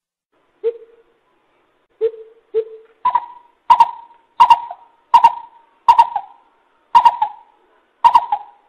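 Coucal (bubut) hooting. A few spaced low hoots come first, then from about three seconds in a steady run of eight higher hoots, about one every 0.7 s, each with a sharp clipped click at its start.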